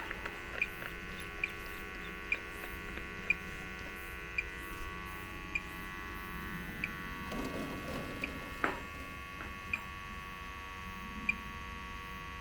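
Tracer-gas leak detector beeping: short high pips about once a second, spreading slowly apart, over a steady hum. The pips come faster the nearer the probe is to the leak. A brief rustle comes about two-thirds of the way through.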